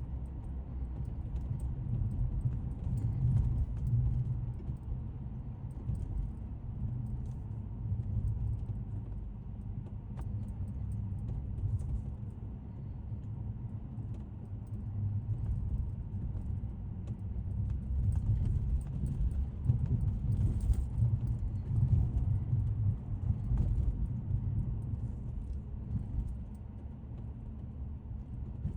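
2012 Audi S5's supercharged 3.0-litre V6 and road noise while driving: a low rumble that swells and eases, loudest a little past the middle, with faint light ticks now and then.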